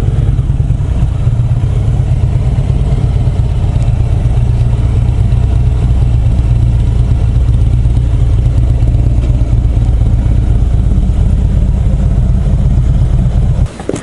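Motorcycle engine running steadily at low speed, a loud low drone that cuts off abruptly near the end.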